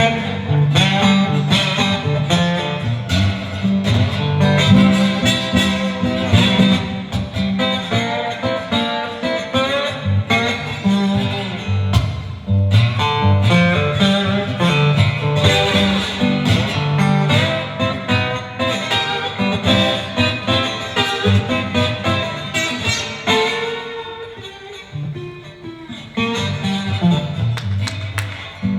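Blues guitar played solo, a run of quick plucked notes over a driving bass line, as an instrumental break between sung verses; it eases off briefly near the end, then picks up again.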